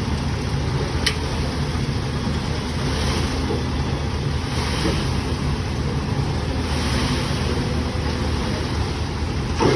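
Eicher 485 tractor's three-cylinder diesel engine running steadily, with a sharp click about a second in and a short knock near the end.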